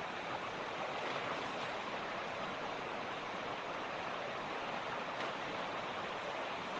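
Fast mountain creek rushing over rocks: a steady, even rush of water with no change.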